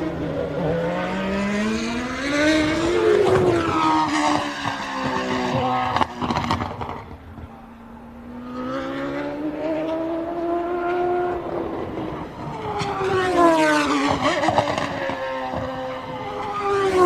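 1990 Formula One cars passing at racing speed, their engine notes climbing as they accelerate, then dropping sharply in pitch as each one goes by. Three cars pass in turn, with a brief lull in between.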